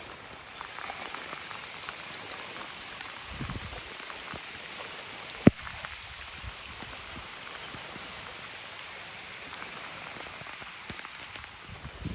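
Rain falling: a steady hiss with scattered small drop ticks, and one sharp click about halfway through.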